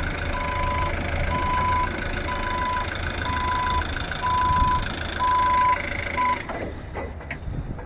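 A vehicle's reversing alarm beeping about once a second, each beep a steady single tone of about half a second, over a running engine. The beeping stops with the last beep cut short about six seconds in, and the engine sound drops away just after.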